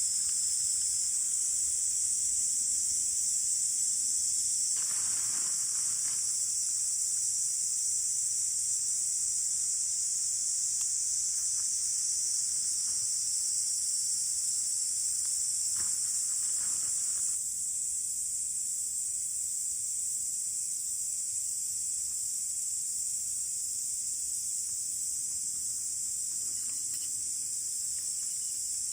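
Steady chorus of insects, a continuous high-pitched sound, with a couple of faint brief rustles about five seconds in and again around sixteen seconds.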